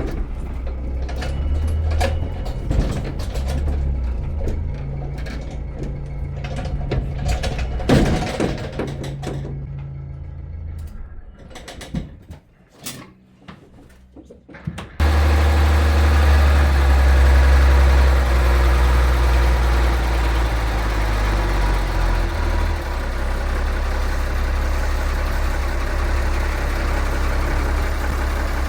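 An engine running steadily, with knocks and clanks over it; about twelve seconds in it drops away to a quieter stretch of scattered clicks, then a louder steady engine sound starts abruptly and runs on.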